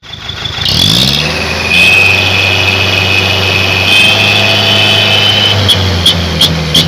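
Truck engine through a loud 'chung Takalar' custom exhaust, revving up about half a second in and then running steadily under throttle.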